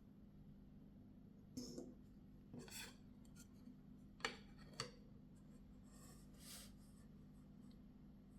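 Quiet handling of a folding knife: a few sharp clicks, the loudest two about half a second apart a little past the middle, with short rubbing scrapes between them.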